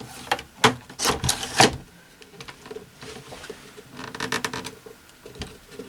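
Sharp clicks and knocks in the first two seconds, then quieter handling noise and another click near the end: hand tools against the hard plastic knobs and case of a Zenith Trans-Oceanic radio as the front knobs are worked off.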